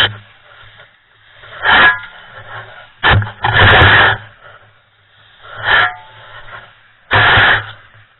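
A shovel scraping and scooping through concrete mix in repeated strokes, about one every two seconds. A low steady hum runs beneath.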